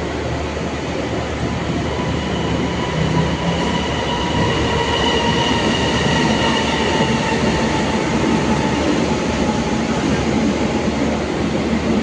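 A train rolling through the station at close range: a loud, steady rumble of wheels on rails, with thin steel-wheel squeals at two pitches that sag slightly and fade out in the second half.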